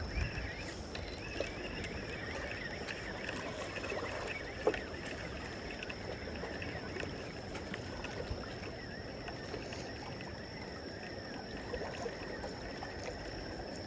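Water sloshing and washing against a harbour breakwater, an even restless wash of noise with a thin steady high tone above it and a few small knocks.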